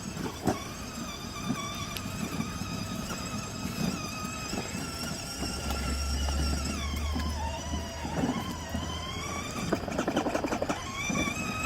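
Children's battery-powered ride-on toy truck, its electric drive motors and plastic gearboxes whining as it drives. The whine dips in pitch and climbs again about two thirds of the way through as it slows and speeds up, with a rapid rattle near the end.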